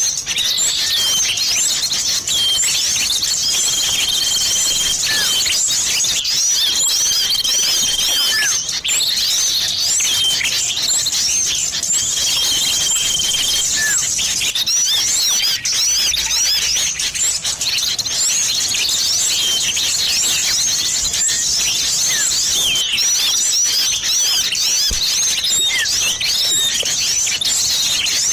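Many small songbirds chirping and twittering at once without a break: a bird-lure track mixing small-bird calls, including sirtu and cipoh (common iora). Long level whistles about a second each stand out several times in the first half.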